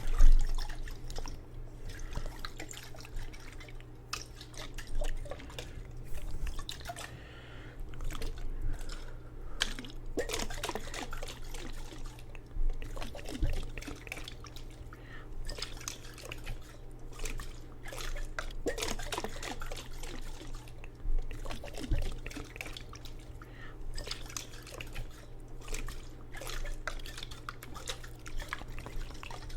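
Water in a jar, dripping and splashing irregularly, with small clicks and taps close to the microphone; a sharper knock right at the start.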